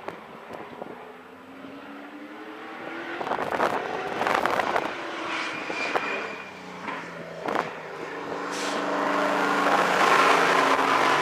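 Modified stock car's fuel-injected V8 engine running on track as it laps, its pitch rising and falling. It gets louder about four seconds in, eases off, then builds again from about eight seconds to the end.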